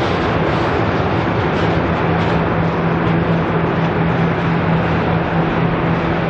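Airbus A340-300's four CFM56 jet engines running at high power, a loud, steady noise with a low hum underneath and no change in pitch.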